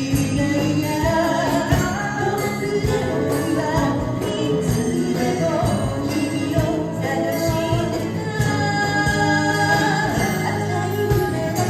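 Live music: a song sung over instrumental accompaniment, with a steady jingling percussion beat.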